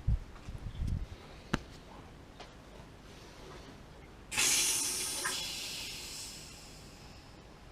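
A few low knocks and a sharp click, then a sudden loud hiss about four seconds in that fades away over about three seconds.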